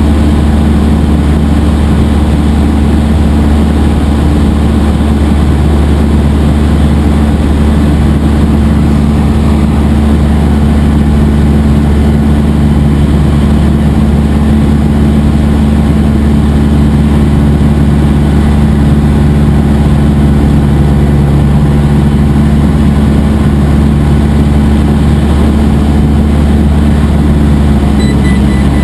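Cessna 172 SP's four-cylinder Lycoming IO-360 engine and propeller running with a steady, loud drone.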